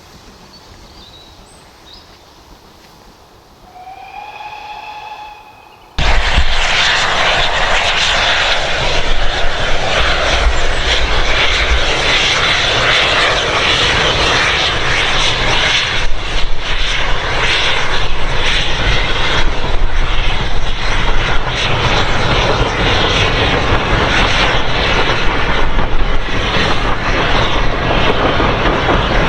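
A steam locomotive whistle sounds once, short and distant, rising slightly in pitch. About six seconds in, a loud, steady rushing roar starts abruptly and runs on with no clear beat.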